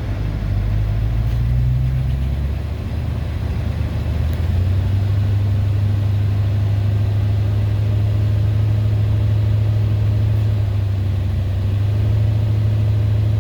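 Cadillac 4.1-litre V8 engine running with the gas pressed to feed a jump-start boost to a car with a flat battery. Its pitch shifts briefly about two seconds in, then it runs steadily and a little louder from about four seconds on.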